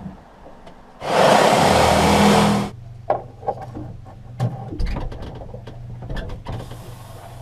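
An electric power tool runs in a burst of nearly two seconds, cutting a vent hole. It is followed by knocks and clicks of handling and a second, fainter burst near the end.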